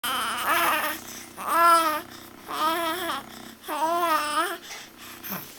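Baby babbling: four drawn-out vocal sounds in a row, each arching up and down in pitch, with short pauses between.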